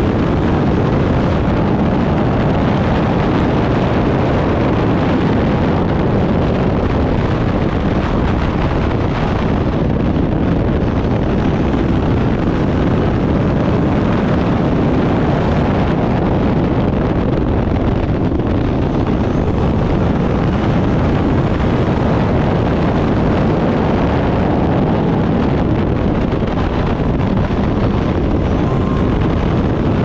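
Turbocharged Backdraft Cobra race car's engine running under load at racing speed, a loud, steady sound with wind noise on the microphone.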